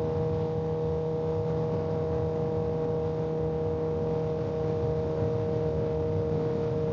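Kawasaki ZX-10R inline-four engine running at a steady speed on cruise control, its pitch holding constant, under wind and road noise.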